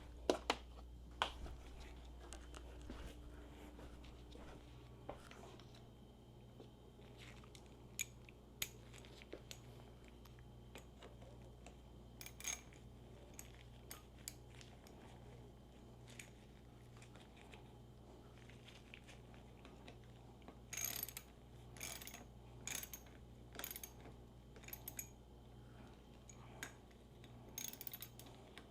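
Sparse clicks and light metallic clanks of hand tools and motorcycle parts being handled during reassembly, with a quicker run of clicks from about 21 seconds in, over a steady low hum.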